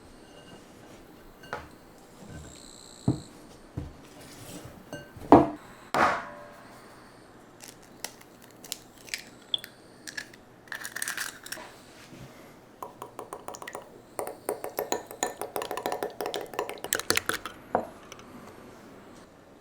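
Kitchen utensils and dishes clinking and knocking, then a few seconds of fast, rhythmic clicking of a utensil against a bowl or vessel.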